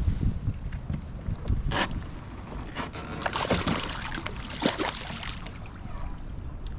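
Wind buffeting the microphone with a steady low rumble, while choppy wind-driven water slaps and splashes against the kayak hull in irregular bursts, most of them in the middle of the stretch.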